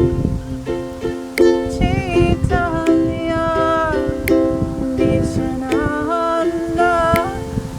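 Ukulele strumming chords to accompany a kirtan melody, with a voice singing the wavering melodic line over it.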